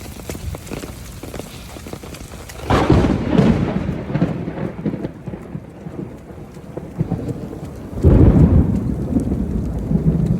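Rain falling with raindrops pattering close by, and two claps of thunder, the first about three seconds in and the second about eight seconds in, each rumbling on for a couple of seconds.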